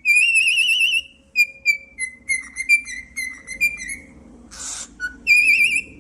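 Pet parrot whistling a tune: a warbling trilled note, then a run of short clear whistled notes, a brief hiss-like burst about four and a half seconds in, and another warbling note near the end.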